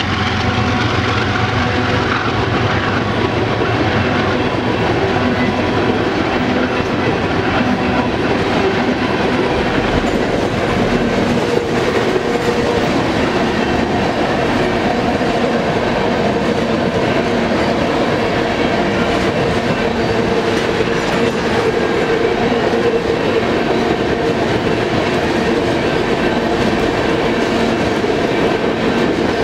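BNSF freight train of tank cars rolling past at speed: a loud, steady rumble of steel wheels on the rails with a continuous clatter as the wheels pass over the rail joints.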